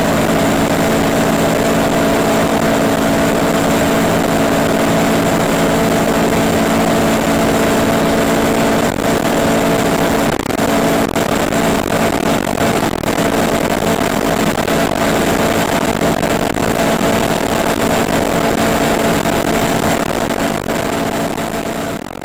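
Honda B16A2 1.6-litre VTEC four-cylinder in a CRX del Sol running at steady high revs at sustained speed, with heavy wind and road noise. It fades away at the very end.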